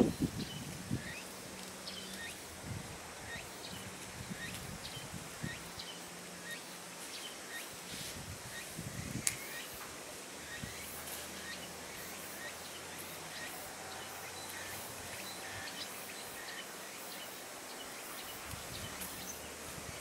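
Outdoor garden ambience with a bird giving short, faint chirps repeating about every second. Brief rustles of vines being handled near the start and again about nine seconds in, with one sharp click among them.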